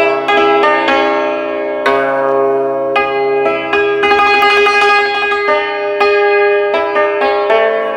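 Yangqin, the Chinese hammered dulcimer, struck with bamboo beaters: single notes that ring on, with a fast tremolo roll of rapidly repeated strikes in the middle.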